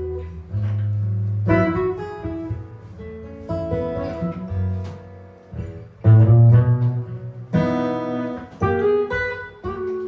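Improvised jazz guitar: single plucked notes and strummed chords over sustained low bass notes, in a loose, free-flowing rhythm.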